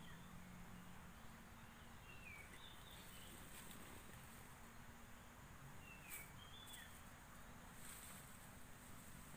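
Faint, short bird chirps, a few quick falling notes now and then, over a quiet background with a faint low hum.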